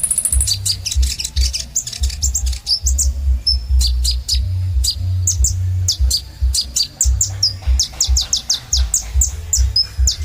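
Kolibri ninja sunbird singing a fast, high-pitched run of sharp chirps and short trills, with a held high trill near the start. A low throbbing hum runs underneath.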